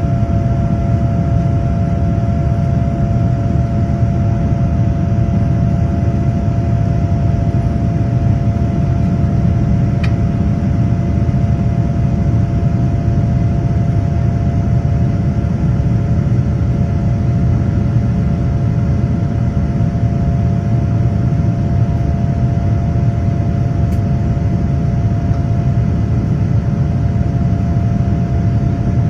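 Boeing 787-10 cabin noise in flight: a steady, loud low rumble of the jet engines and airflow, with a constant hum running through it.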